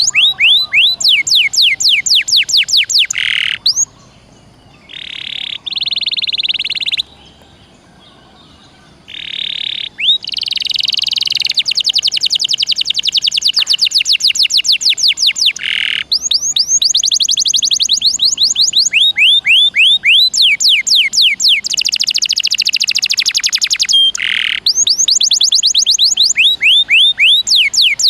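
Domestic canary singing loudly: fast trills of repeated downward-sweeping notes alternating with buzzy rolls, with brief pauses about four and eight seconds in.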